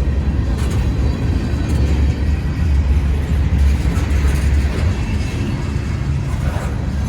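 Freight train cars rolling past, a steady low rumble of wheels on rail.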